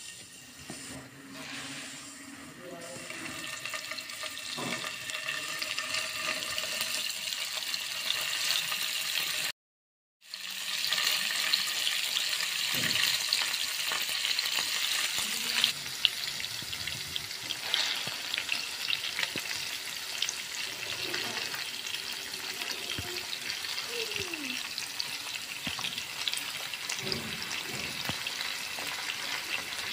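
Pepper-coated paneer cubes sizzling as they fry in hot oil in a nonstick pan, the sizzle growing louder over the first few seconds as more cubes go in. The sound cuts out briefly just before ten seconds in, then the steady frying sizzle carries on.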